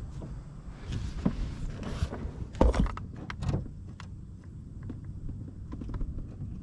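Metal parts and tools being handled on a mower deck: a series of knocks and clinks, the loudest a little under three seconds in, over a low steady rumble.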